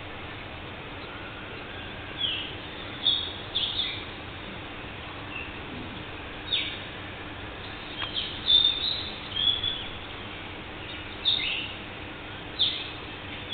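Village birds calling: short, sharp, high chirps, many sweeping downward, come irregularly every second or two, with a cluster of calls around the middle, over a steady background hiss.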